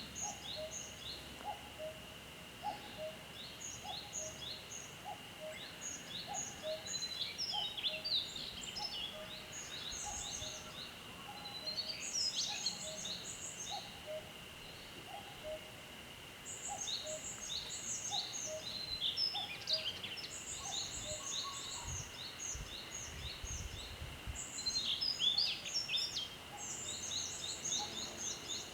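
A male Daurian redstart singing its breeding-season song: quick phrases of short, high, scratchy notes, broken by brief pauses. A steady high hum and a low note repeating about twice a second run underneath.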